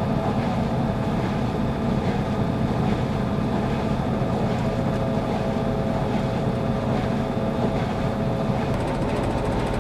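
RCA RPW160-B compact portable washing machine on its spin cycle: a steady motor hum over a low rumble from the spinning drum.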